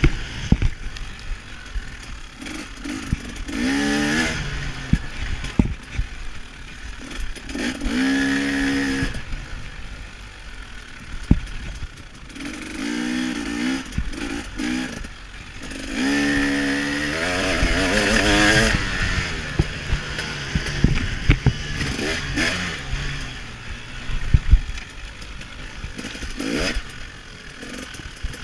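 KTM 300 XC-W two-stroke dirt bike engine ridden hard on a motocross track, repeatedly revving up and dropping off, with one longer pull near the middle. Frequent knocks and clatter from the bike over bumps run through it.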